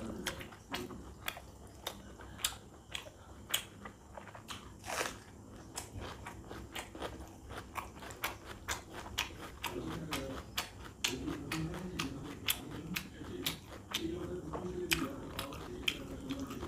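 Close-miked chewing and mouth smacks of a person eating panta bhat, rice soaked in water, by hand, with many sharp wet clicks a few each second.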